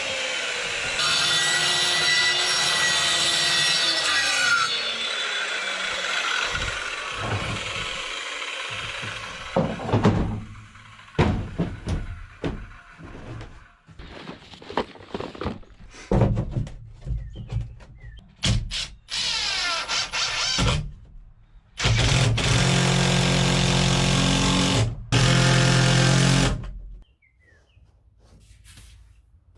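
Power tools working lumber: first a long stretch of saw cutting wood, with the motor pitch falling as it winds down. Then a series of knocks, and several runs of a power drill driving screws, a few seconds each, ending about three seconds before the end.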